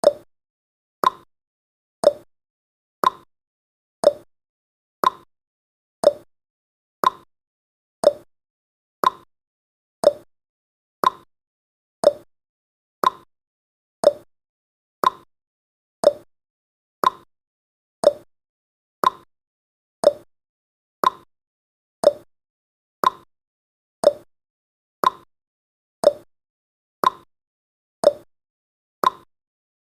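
Countdown timer's ticking sound effect, one short sharp tick every second, each dying away quickly.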